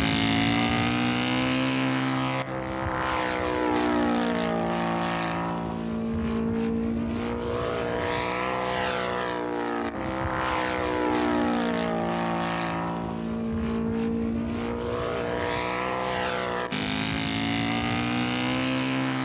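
Propeller-driven radio-controlled scale model airplane engine passing in flight, its pitch sliding down and back up, in several edited clips joined by sudden cuts.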